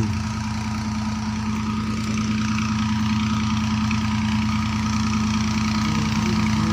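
Ghazi diesel tractor engine running steadily under load, driving a tube-well pump through its PTO. It holds a constant drone with an even low pulse.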